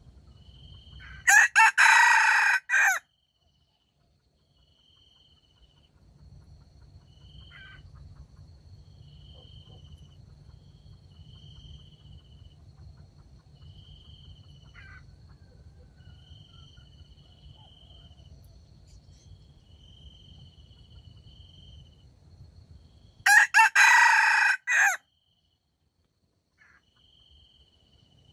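Junglefowl rooster crowing twice, about twenty seconds apart, each crow short and loud. Crickets chirp in a steady, slow rhythm between the crows.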